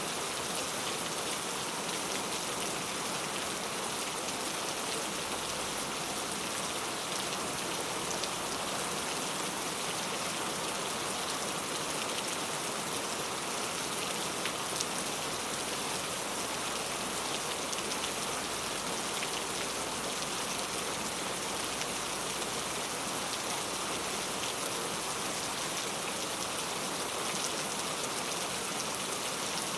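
Heavy rain falling steadily: a dense hiss of drops hitting hard surfaces, with fine individual drop ticks.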